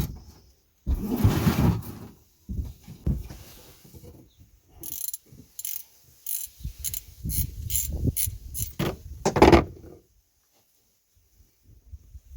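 Mechanical clicking and clattering: a short clatter, then a run of about nine evenly spaced sharp clicks, roughly three a second, then a louder scraping burst.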